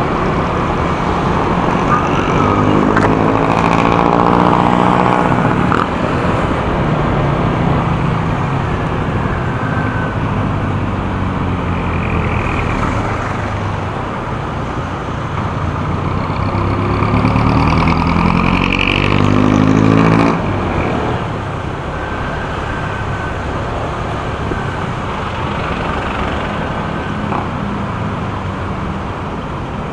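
Motorcycle engine running under way, with steady wind rush. The engine pitch climbs as it accelerates a few seconds in and again from about fifteen to twenty seconds, then drops off abruptly as the throttle closes.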